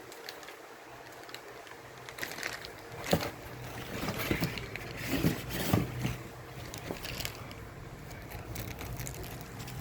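Handling noises while unboxing a laptop: scattered rustles, clicks and knocks of packaging, busiest a few seconds in, over a low steady hum.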